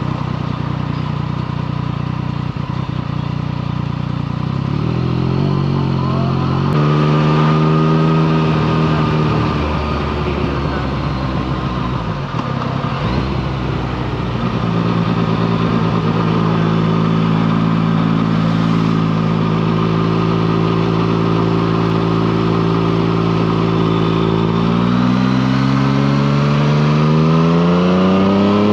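Motorcycle engine running with changing revs. The pitch steps up early on, sags and recovers in the middle, holds steady for a long stretch, and then climbs smoothly near the end as the engine is revved or accelerates.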